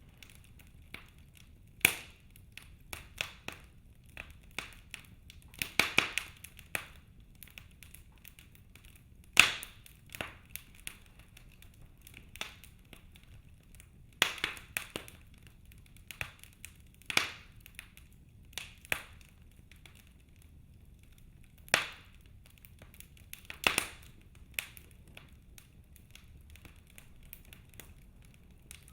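Wood fire in a fireplace crackling, with irregular sharp pops and snaps every second or so over a faint low rumble. A few pops stand out louder than the rest.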